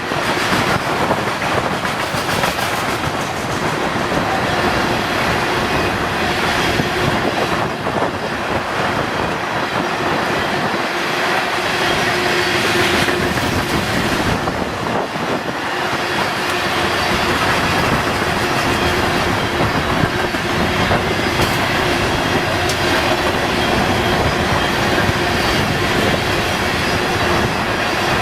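Freight train cars rolling past at steady speed, wheels clicking over the rail joints, with a faint steady wheel squeal in parts.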